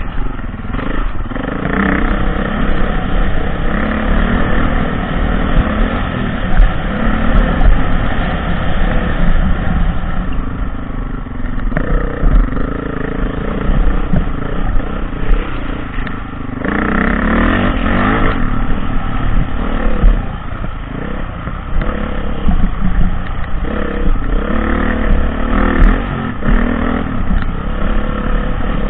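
Dirt bike engine revving up and down while being ridden off-road, with louder pulls about two seconds in and again around two-thirds of the way through. A constant low rumble with many small knocks runs underneath.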